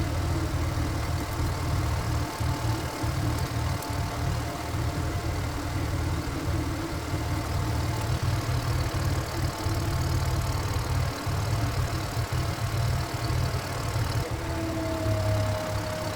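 Power tiller's single-cylinder diesel engine running steadily with a low throb, a steady whine above it that drops slightly in pitch near the end.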